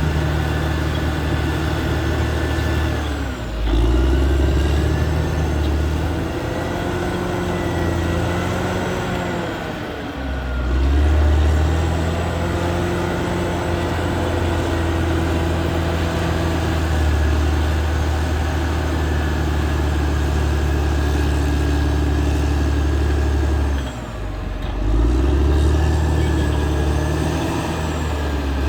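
Caterpillar D6R XL bulldozer's diesel engine running hard. Its note briefly drops and picks back up three times, about 3.5, 10 and 24 seconds in.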